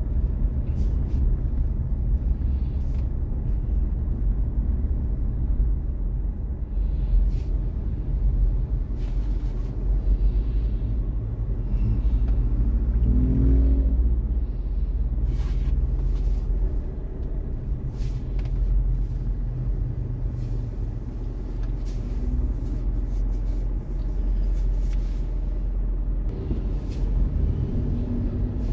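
Steady low rumble of a car driving in city traffic, engine and road noise. A short wavering tone rises out of it about halfway through.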